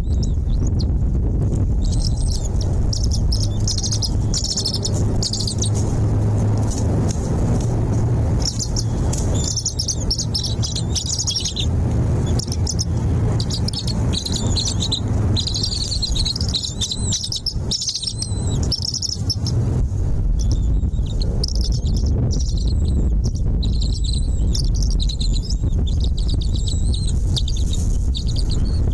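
Small birds chirping in clusters of rapid, high twittering, pausing briefly now and then, over a steady low rumble.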